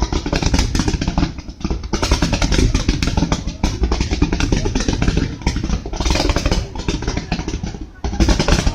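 Fireworks display: a dense barrage of rapid bangs and crackling that starts suddenly and keeps up almost without a break, easing briefly about a second and a half in and again near the end.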